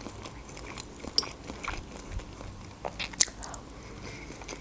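Close-miked chewing of a mouthful of Uzbek plov (rice pilaf), with wet mouth clicks and smacks scattered through, the sharpest a little past three seconds in.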